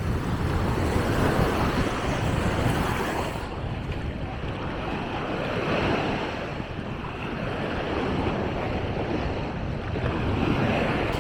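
Small sea waves washing onto a sandy beach, the surf noise swelling and easing every few seconds, with wind rumbling on the microphone.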